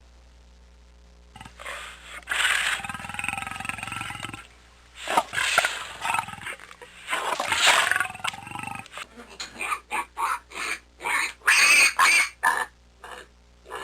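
An animal calling loudly: three long, strained calls, then a fast series of short calls over the last few seconds.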